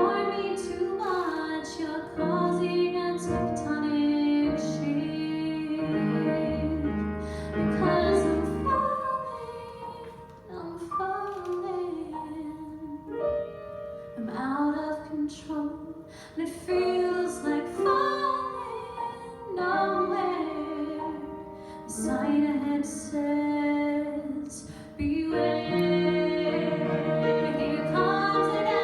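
A woman singing a musical theatre ballad solo, with piano accompaniment.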